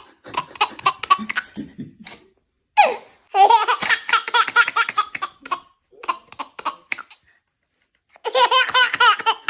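A baby laughing: several bouts of quick, repeated giggling pulses with short pauses between them.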